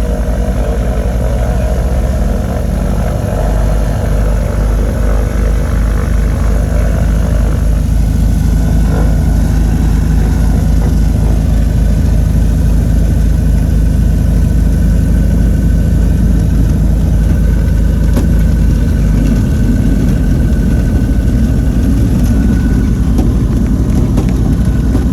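The twin piston engines of a Cessna 310K, heard inside the cabin as a steady, loud drone. The engine note changes at about 8 seconds and again at about 19 seconds.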